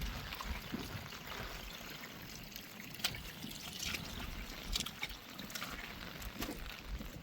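Water trickling and splashing, with a few sharper splashes scattered through.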